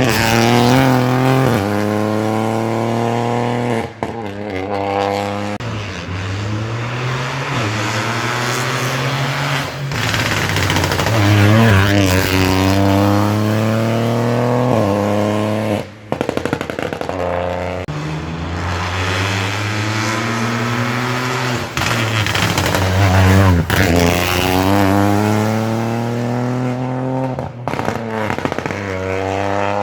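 Rally car engines at full throttle, revving up through the gears in repeated rising sweeps with sharp drops at each shift, over tyre hiss on wet tarmac.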